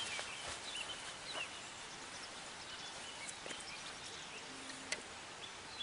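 Quiet outdoor ambience with a few brief, faint bird chirps and a couple of small clicks near the end.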